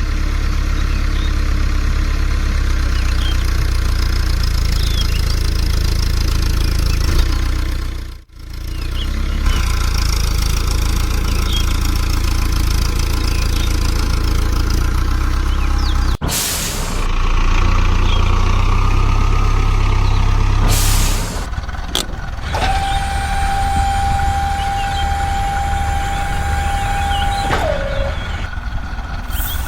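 An engine running steadily at idle, with brief cuts in the sound. In the last third a single steady tone is held for about five seconds.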